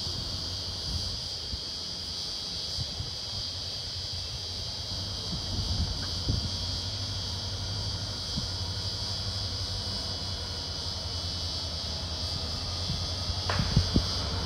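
Steady high buzz of insects over the low, even rumble of a freight train, with a couple of sharp knocks near the end.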